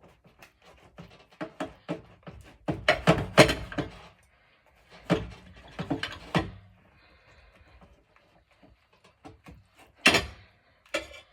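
Knife cutting a fried egg in bread into four pieces: runs of crunching, knocking strokes through the bread and against the surface beneath, with a couple of sharper single knocks near the end.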